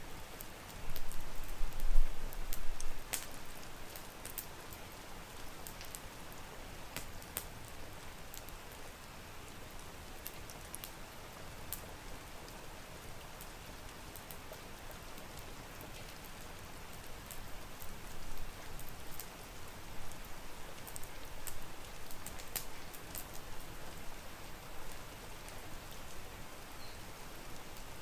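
Steady rain hiss with scattered sharp pops and crackles of a wood fire. A deep low rumble, the loudest sound here, comes in about a second in and fades after about two seconds.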